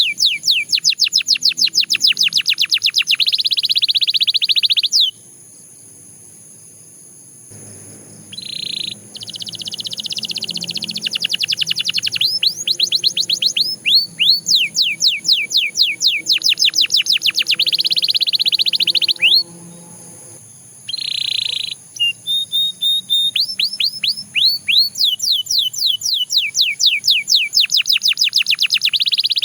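Canary singing long rolls of rapid downward-sweeping notes and dense trilled passages, breaking off about five seconds in and again about twenty seconds in before resuming.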